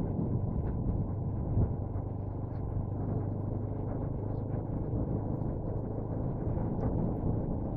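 A steady low rumble of wind on the microphone mixed with vehicle noise from riding a bike.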